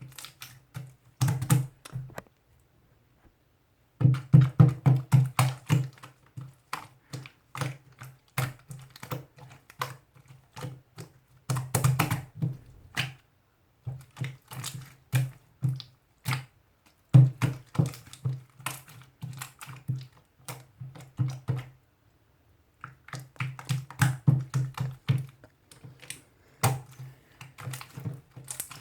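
Computer keyboard typing in quick runs of keystrokes, stopping and starting with short pauses.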